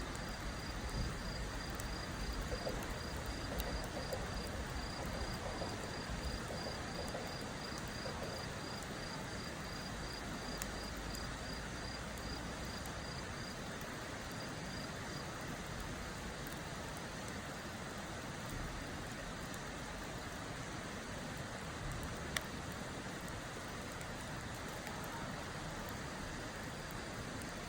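Wood fire burning in a Snow Peak Takibidai L fire stand, a steady hiss with an occasional sharp pop, the loudest about two-thirds of the way in. A cricket chirps in an even, rapid pulse through the first half.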